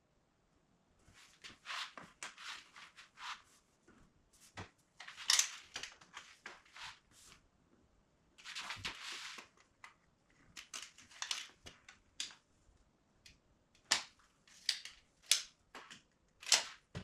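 Hand work on wood: irregular short scraping strokes and sharp clicks, with a longer hissing scrape about nine seconds in and a cluster of sharp clicks near the end.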